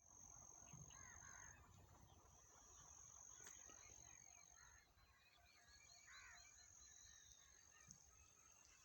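Faint birds calling in the open, with short arching chirps and a quick run of repeated notes about four seconds in, over a steady high-pitched tone that comes and goes.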